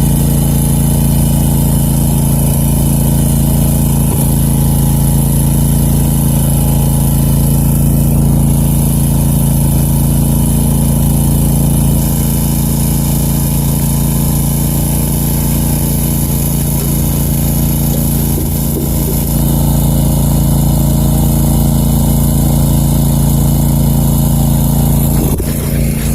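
Country Clipper zero-turn lawn mower's engine running steadily at a constant speed.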